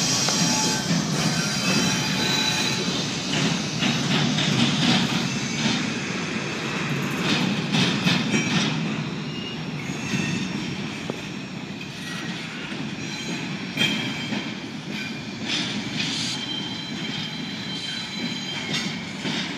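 Double-stack intermodal freight cars rolling past: a steady rumble of steel wheels on rail with irregular clicks over the rail joints and thin wheel squeal. It slowly grows quieter toward the end.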